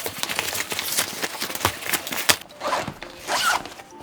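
Zipper on the vacuum's small carry bag being pulled open, a rapid rasping run of clicks lasting about two and a half seconds, followed by a few softer rustles of fabric.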